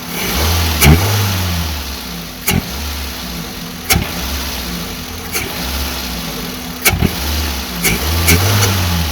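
Maruti Suzuki Wagon R engine starting and running with its air filter removed, revved in repeated blips with several sharp clicks. The rush of air drawn into the open intake on each blip is the air-sucking sound that the broken, loose air filter cap had been letting in on acceleration.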